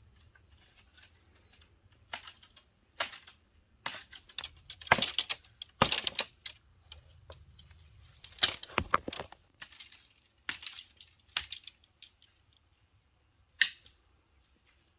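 Dry sticks and twigs snapping and crunching as firewood is gathered: irregular sharp cracks in clusters, heaviest in the middle, with one last single crack near the end.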